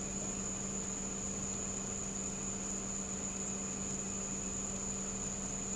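Steady background hum and hiss with a constant high-pitched whine, unchanging throughout.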